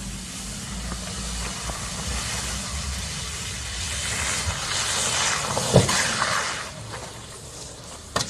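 Steady tyre and road noise of a car driving, picked up by a dash camera, swelling a few seconds in, with one sharp knock near the six-second mark and a short click near the end.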